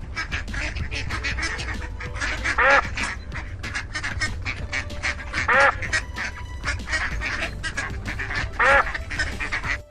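Waterfowl calling: three loud, short single calls about three seconds apart, with softer calls and clicks between them over a steady low rumble.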